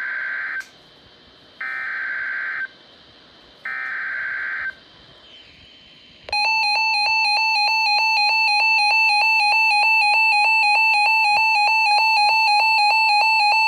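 Emergency Alert System header: three one-second bursts of SAME digital data tones about a second apart, which encode the coming alert. About six seconds in, the louder EAS attention tone starts and holds steady with a fast buzzy pulse, signalling that an alert message follows.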